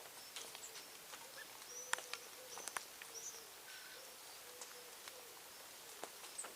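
Birds at a feeding spot: short high chirps and several sharp clicks, the loudest about two seconds in, over a faint low note that repeats in short pieces like cooing.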